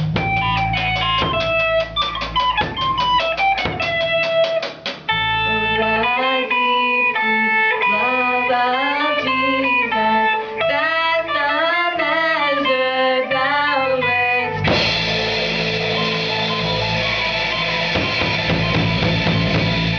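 Band music led by guitar with drums. Quick picked guitar notes give way about five seconds in to a bending melodic line, and about fifteen seconds in the full band comes in with a dense, louder sound.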